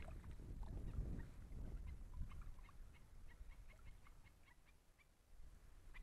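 A bird calling somewhere off across the water in a rapid run of short, pitched notes, several a second, over wind rumbling on the microphone.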